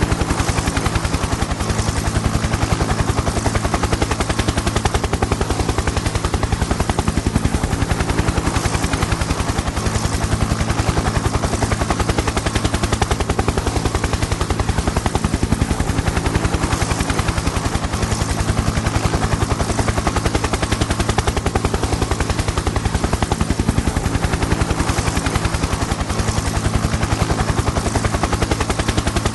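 Helicopter in flight: the rapid, even chop of the rotor blades over a steady engine and turbine hum, unchanging throughout.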